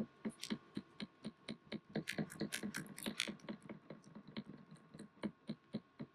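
Washing machine tumbling a load of bedding, with a rapid, irregular clatter of light knocks and clicks, about four or five a second, busiest in the middle, over a faint steady hum.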